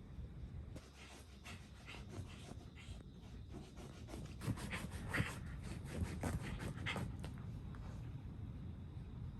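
A Shiba Inu panting quickly in a rapid, irregular run of short breaths, starting about a second in and easing off near the end, over a low steady rumble.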